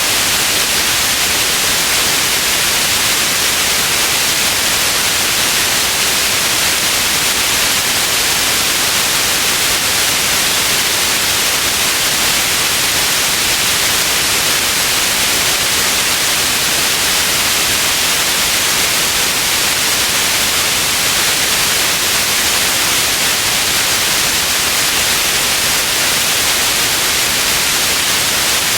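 Steady white noise: an even, unchanging hiss, strongest in the treble, with no breaks or events.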